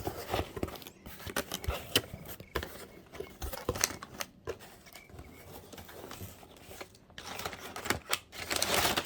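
Cardboard shipping box being opened by hand: a string of clicks, scrapes and tearing, with a louder rustle of packing paper near the end.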